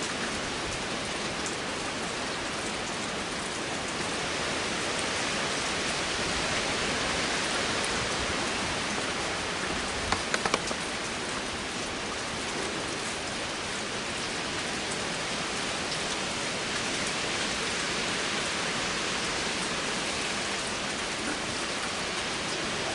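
Heavy storm rain and wind, a steady even hiss, with a short cluster of clicks about ten seconds in.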